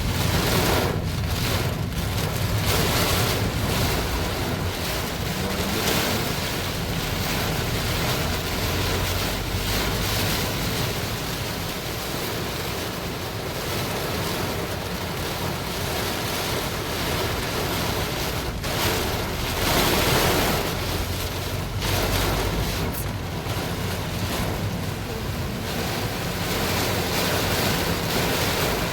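Heavy rain pouring down steadily in strong wind, with gusts buffeting the microphone; the noise swells and eases, loudest about two-thirds of the way through.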